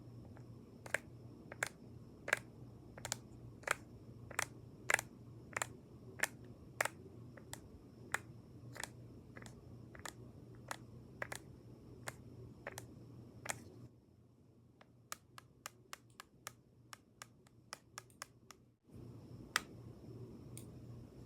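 ASMR tapping on makeup items: crisp, separate taps about two a second over a steady low hum. From about two-thirds of the way through, the taps come quicker and fainter, then one louder tap falls near the end.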